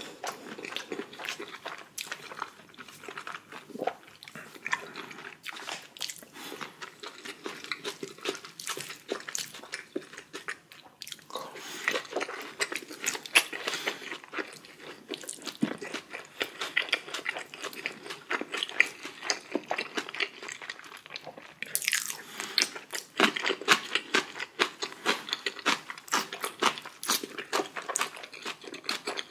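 A person chewing and biting food, a dense run of quick irregular mouth clicks and crunches.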